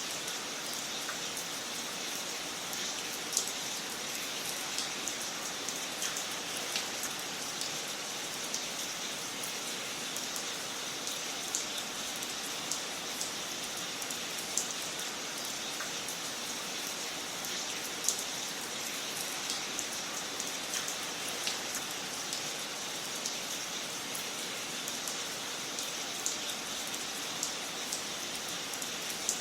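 Wood fire crackling in a fireplace: a steady hiss with frequent small snaps at irregular intervals and a few louder pops.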